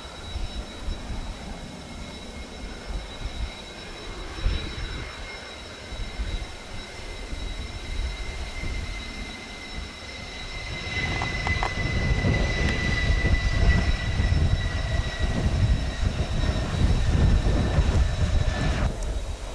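Mitsubishi F-2 fighter jet engine: a high whine that slowly falls in pitch, over a gusty rumble that grows louder about ten seconds in. The jet is coming in to land. The whine cuts off abruptly just before the end.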